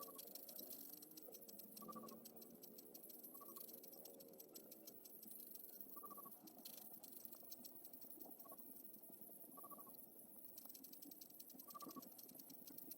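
Faint bird calls: a short high note repeated every couple of seconds, with light ticking and scratching.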